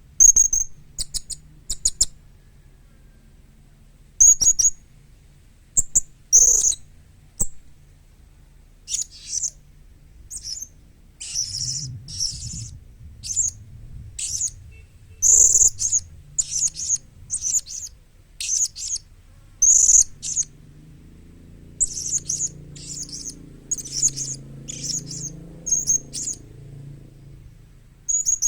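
Young blue-crowned hanging parrot calling: short, thin, very high chirps in quick irregular clusters, with brief gaps between them.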